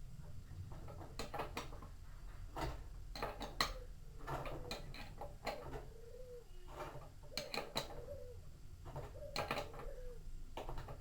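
Repeated knocks and clinks of metal parts being handled while a washing machine's drum and tub are put back together, with a pigeon cooing softly in the background.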